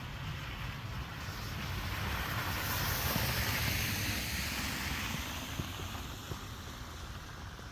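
A vehicle passing on a snowy road: tyre hiss that swells to a peak about three seconds in, then fades away.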